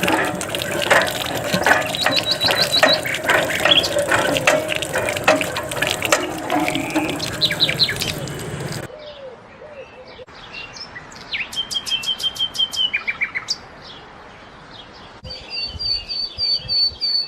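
Birds chirping and singing: a dense chatter of many chirps for the first half, then an abrupt change to a quieter background with separate high, repeated song phrases and trills.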